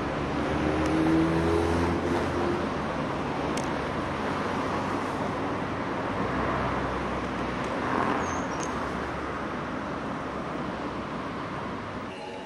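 An Enoshima Electric Railway train running along its track with steady traffic noise, with a faint low hum about one to three seconds in.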